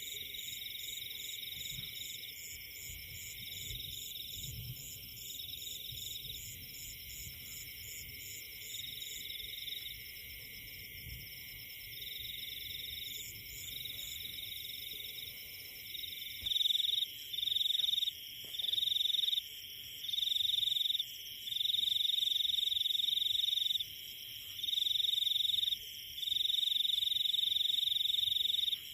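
Chorus of forest frogs and insects calling in high-pitched trills. A rapid pulsing call at about three to four pulses a second runs through the first third. From about halfway a louder shrill call joins, in stretches of one to two seconds with short breaks.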